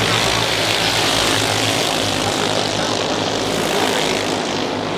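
Race car engine noise: a loud, steady drone with a hissing upper edge that thins out near the end.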